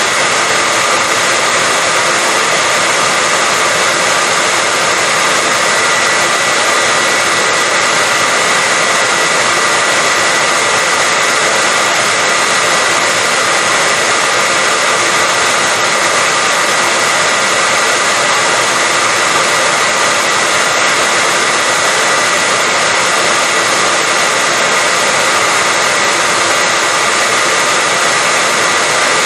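Electric hair dryer running steadily: an even rush of blown air with a constant high-pitched whine, unchanging throughout.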